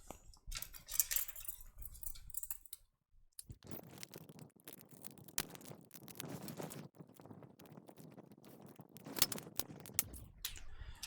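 Faint, scattered clicks and scrapes of small tools and parts being handled on a workbench, with a few sharper clicks about nine seconds in.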